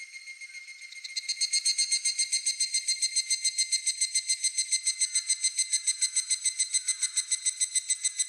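Higurashi (evening cicada) calling: a high, ringing, rapidly pulsing trill that swells in about a second in and then holds steady, over a fainter steady insect drone.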